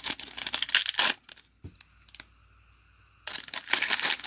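Crinkling and rustling of trading-card pack wrappers and cards being handled. It stops about a second in and starts again about three seconds in.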